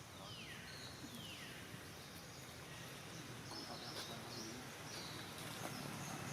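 Outdoor forest ambience with two falling whistled calls in the first second and a half, then a few faint high chirps later on.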